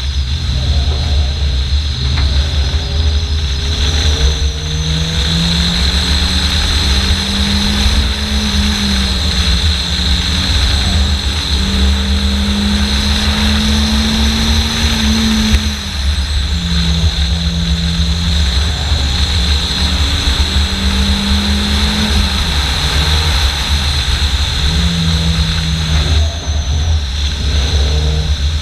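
Fiat Seicento Sporting's small four-cylinder engine under hard acceleration in a slalom run. Its pitch climbs and falls several times with short breaks as the driver lifts and changes gear, over a heavy, constant low rush of wind and road noise.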